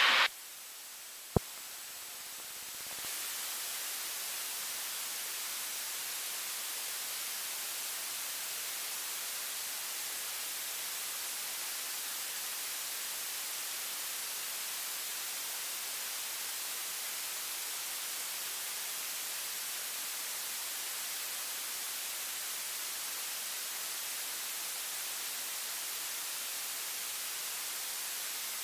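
Steady hiss of static on the cockpit audio feed, with no engine heard, and a single sharp click about a second and a half in. The hiss grows louder about three seconds in and then holds steady.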